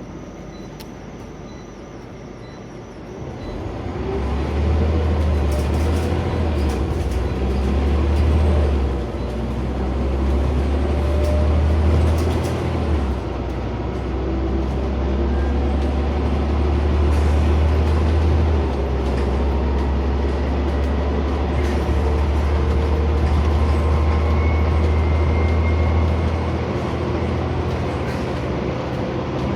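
Scania OmniCity single-decker bus heard from on board: quiet at first with a light regular ticking, then about four seconds in the engine pulls away with a deep rumble that rises in pitch. The rumble eases briefly twice, runs on steadily, and drops back a little near the end.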